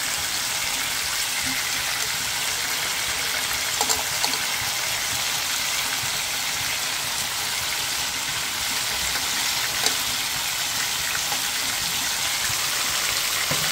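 Chicken strips frying in oil in a grill pan: a steady sizzling hiss, with a few light clicks of metal tongs against the pan.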